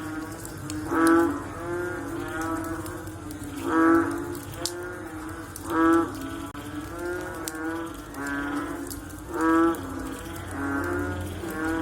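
Frogs calling: four loud, deep, drawn-out croaks two to three seconds apart, with fainter calls from other frogs between them.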